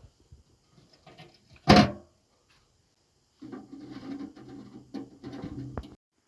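Wood handled by hand: one sharp knock, then a couple of seconds of rubbing and scraping that stops abruptly.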